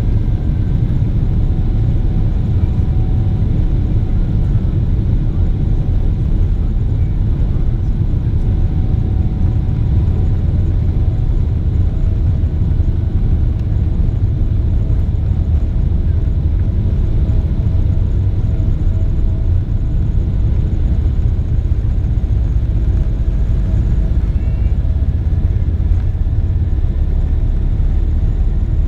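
Cabin noise of a Boeing 777-300ER at takeoff: the steady, deep roar of its GE90 jet engines and airflow, heard from inside the cabin, with a faint steady whine above it.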